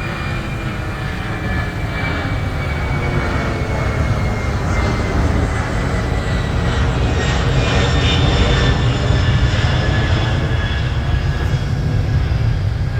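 Boeing 767-300's twin jet engines running at high power as it departs: a heavy rumble under a high whine that slowly falls in pitch, growing louder toward about nine seconds in.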